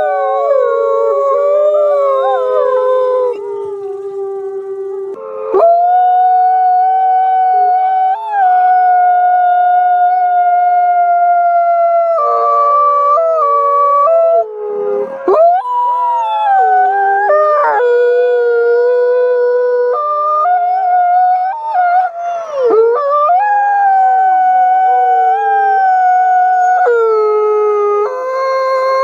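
A pack of wolves howling in chorus: several long howls overlap, each holding its pitch and then sliding up or down, with new voices joining at staggered moments.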